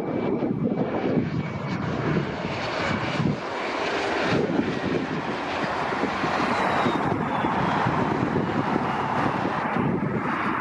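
Bombardier CRJ-900 regional jet's twin rear-mounted GE CF34 turbofans passing, a steady jet rumble with a faint high whine.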